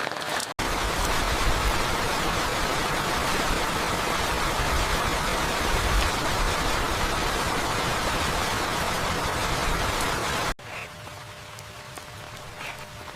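Heavy rain pouring steadily with a low rumble underneath. It cuts off suddenly about ten seconds in, leaving a lighter patter of drops.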